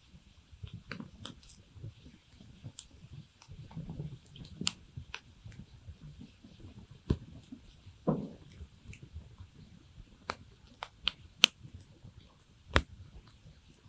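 Campfire crackling, with scattered sharp pops of burning wood over a low, steady crackle and a short falling squeal about eight seconds in.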